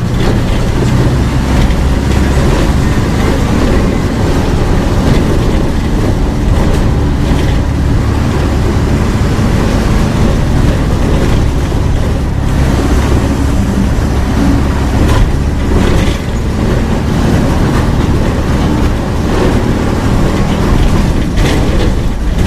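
Mercedes-Benz OF 1722M bus diesel engine running at high revs, loud and steady, its pitch shifting slightly, with a short dip in loudness about two-thirds of the way through.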